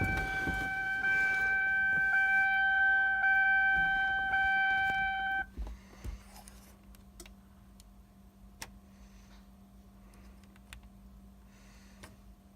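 Chevrolet Tahoe's dashboard warning chime sounding as a steady electronic tone with the key turned on and the engine off; it cuts off about five and a half seconds in. A faint steady hum and a few light clicks follow.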